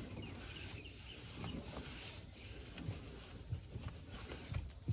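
Faint rubbing of a rag being wiped over a plastic engine air intake tube, with a few soft knocks in the second half.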